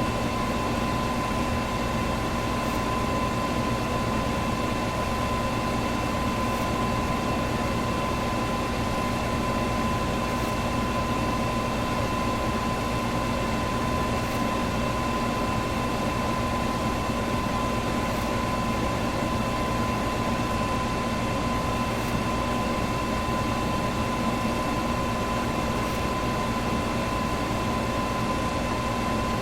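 Electric fan running steadily: an even whooshing rush of air with a steady hum tone in it.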